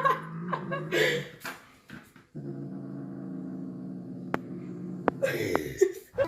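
A dog growling: a long, steady low growl through the middle, with shorter vocal sounds before and after it.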